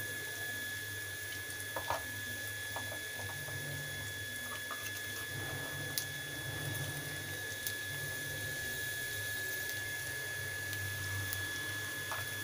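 Onions, green chillies and curry leaves frying in oil in a steel kadai: a steady sizzling hiss, with a few light clicks of a steel spoon against the pan and a steady faint high whine.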